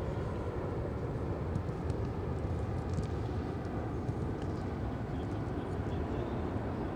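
Steady low outdoor rumble with a few faint knocks.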